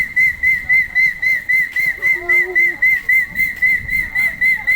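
A loud, high-pitched electronic beeping that pulses evenly about five times a second without a break. Faint voices can be heard about two seconds in.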